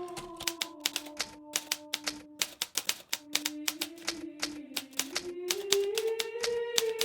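Hermes Baby portable manual typewriter being typed on: keys striking in quick, irregular runs of sharp clacks with brief pauses. Soft music with long held notes plays underneath.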